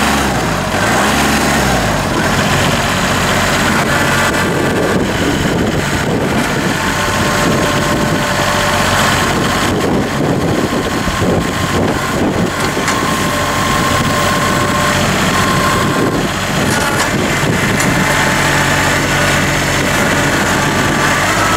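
Kubota L3301's three-cylinder Kubota diesel engine running. It revs up during the first second or two, then runs steadily.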